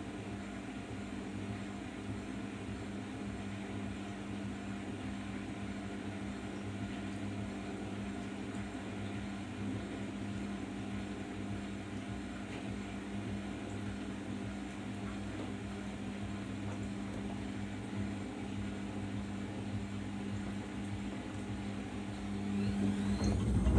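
Arçelik 5083 washing machine running during its rinse stage: a steady electric hum with one constant tone. It swells louder near the end.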